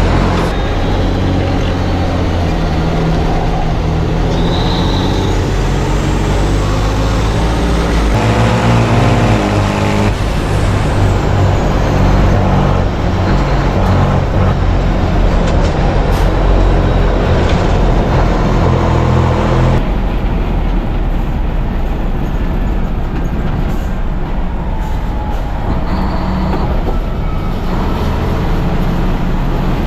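Racing truck engine working hard under race load, its pitch rising and falling as it revs up and changes gear.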